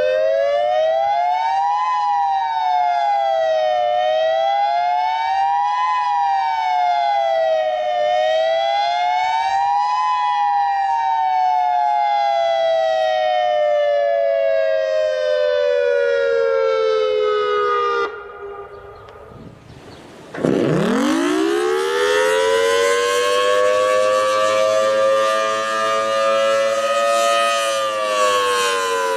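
Tornado warning siren with two close tones, wailing up and down in pitch every two seconds, then sliding slowly down until it cuts off about eighteen seconds in. After a short pause a siren winds up quickly from a low pitch, holds steady, and starts to wind down near the end.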